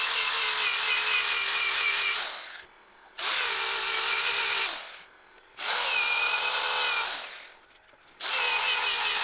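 Handheld electric drill motor run in four bursts of about two seconds each, a steady whine that starts sharply and winds down briefly after each release of the trigger.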